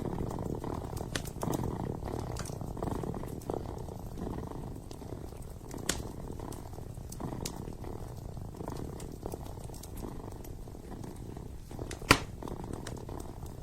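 A kitten purring steadily, the purr swelling and fading with each breath, over the light crackle of a wood fire in a fireplace, with one sharp loud pop near the end.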